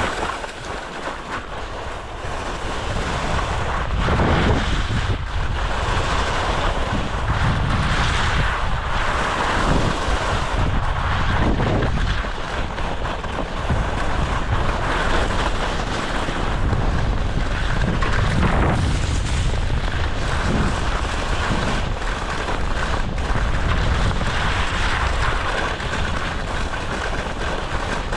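Wind rushing over and buffeting the microphone in uneven gusts, over a continuous hiss.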